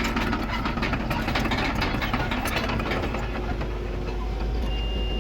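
Heavy diesel earthmoving machinery running steadily, with constant mechanical clatter. Near the end a high reversing-alarm beep starts.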